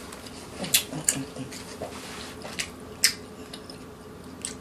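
Eating sounds: wet mouth smacks and chewing, with a few sharp clicks, the loudest just under a second in and about three seconds in.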